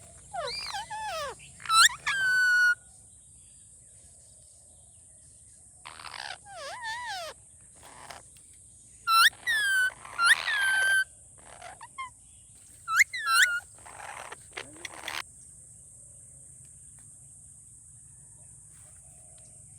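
Indian ringneck parrot calling in short bursts of gliding, pitched calls, in several groups spread over the first fifteen seconds or so, then falling quiet.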